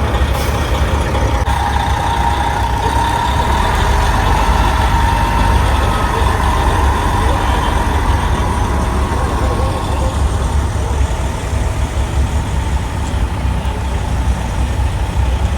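Heavy diesel engines of big rig trucks running with a steady low rumble as the convoy moves along. A steady high whine sits over the rumble from about two seconds in until about ten seconds in.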